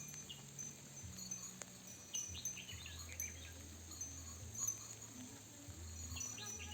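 Ambient nature soundscape: soft chime-like tones and a low drone under a faint hiss, with short bird chirps about two seconds in and again near the end.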